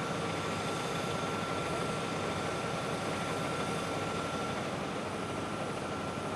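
Steady engine drone with a constant high whine running through it, even and unchanging.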